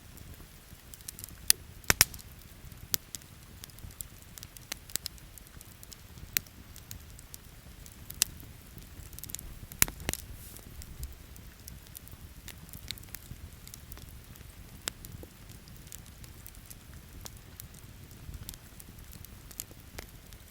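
Wood campfire crackling, with irregular sharp pops and snaps. A cluster of loud pops comes about two seconds in, and another near the middle. A steady low rumble runs underneath.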